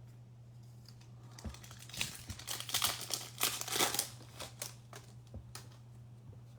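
Plastic trading-card pack wrapper crinkling and crackling in the hands, most busily between about two and four seconds in, then a few light clicks as the cards are handled.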